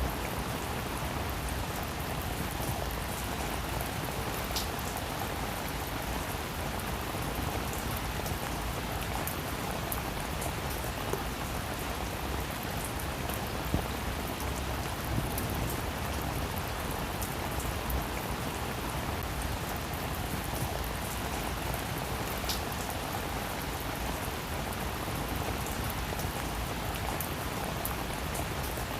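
Heavy rain falling steadily, a dense hiss of drops with scattered sharper drop ticks.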